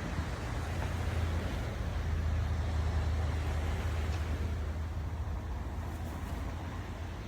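A vehicle's low, steady engine rumble under an even rushing noise, which swells slightly in the middle and eases off toward the end.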